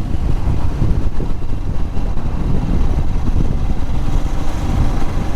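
Royal Enfield Himalayan's single-cylinder engine running steadily under way on the road.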